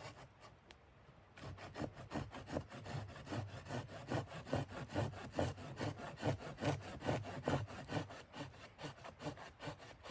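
Hand saw cutting through wood in quick, even back-and-forth strokes, about four or five a second, starting about a second and a half in.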